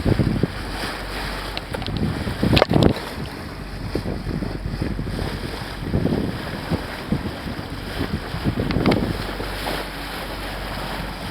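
Wind buffeting the microphone over water rushing along a sailboat's hull, with several louder surges, the strongest about three seconds in.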